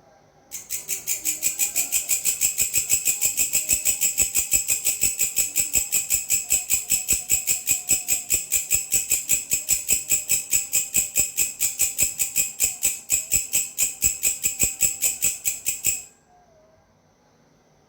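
Belalang, a grasshopper-type orthopteran insect, stridulating: a high, dry rasping call of rapid even pulses, about five a second, which starts abruptly about half a second in and cuts off suddenly near the end.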